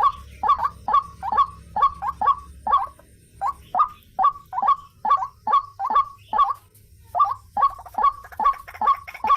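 White-breasted waterhen (ruak-ruak) calling: a fast run of repeated short, harsh notes, about two or three a second, with a brief break about seven seconds in.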